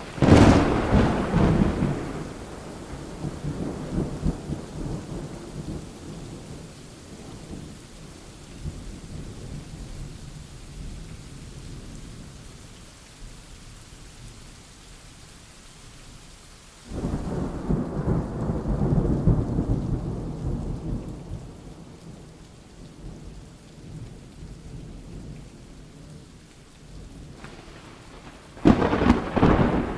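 Thunderstorm: steady rain with rolling thunder. Three loud claps of thunder, one right at the start, one a little past the middle and one near the end, each rumbling off over several seconds.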